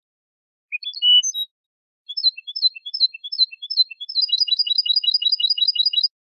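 European goldfinch song: a short twittering phrase about a second in, then a series of repeated chirps at about three a second that speeds into a rapid trill of about ten notes a second, stopping just before the end.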